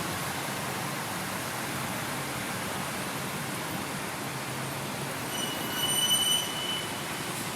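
Steady hiss of rain, with a high-pitched squeal rising above it about five seconds in and lasting about a second and a half.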